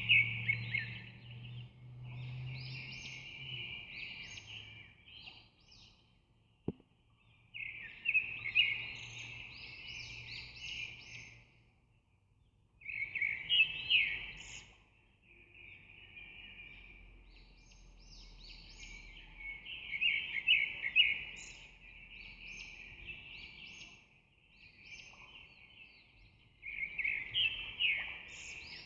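Bird song: repeated bursts of rapid chirps and trills, each a couple of seconds long, with short pauses between them. A single sharp click comes about seven seconds in.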